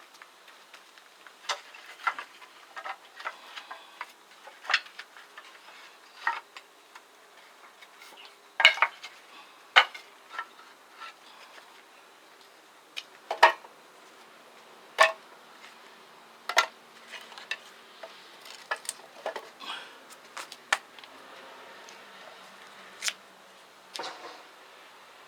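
Irregular sharp clinks and knocks of hard objects being handled and set down, with a few louder knocks about a third of the way in and around the middle.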